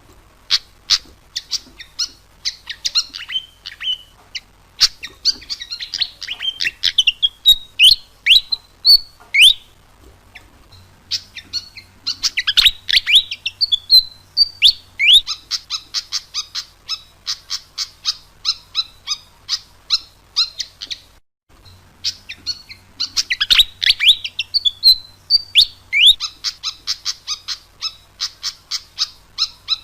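Pied fantail singing: quick sharp chirps and downward-slurred whistled notes that run into fast, evenly spaced twittering. The same phrase comes again about every eleven seconds, with a brief break about two-thirds of the way through.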